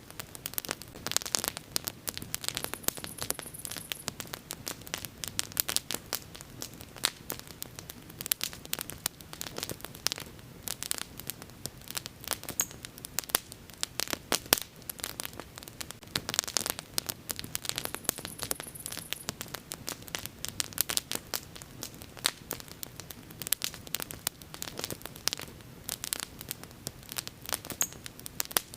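Wood bonfire crackling: dense, irregular snaps and pops of burning wood, some much louder than others, over a steady low rush of flame.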